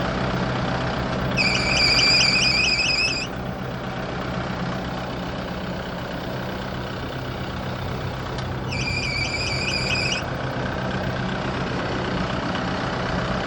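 Kubota broom tractor engine running steadily, with two bouts of a high, rapidly pulsing squeal about a second in and again near nine seconds: a belt slipping on a bad top pulley.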